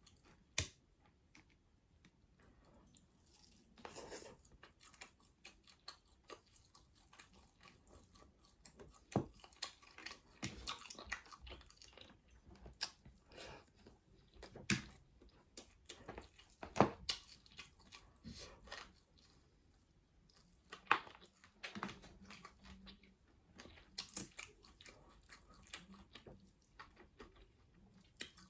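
Close-up eating sounds of rotisserie chicken with rice: irregular wet chewing and smacking with sharp clicks, coming in bursts with short pauses.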